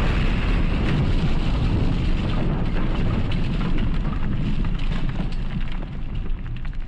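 Explosion sound effect: a loud, sustained rumble with steady crackling, easing off somewhat near the end.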